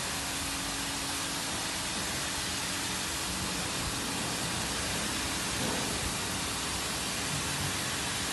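W200D automatic car wash machine running, a steady, even rushing hiss like spraying water, with a faint low hum beneath it.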